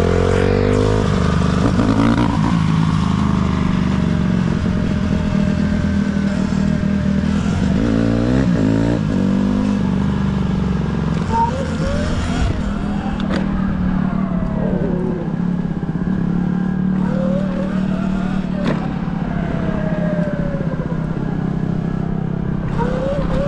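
Motorcycle engine running steadily under way. Over it, other bikes' engines rise and fall in pitch as they rev, with a few sharp clicks in the second half.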